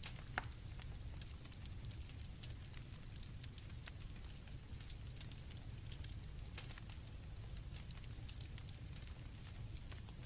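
Night campfire crackling with scattered sharp pops over a low rumble, and crickets chirping in a steady high drone. One louder pop comes about half a second in.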